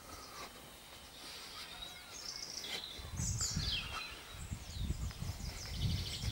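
Garden birds singing, short chirps and quick falling trills. From about three seconds in, a low, uneven rumble joins them.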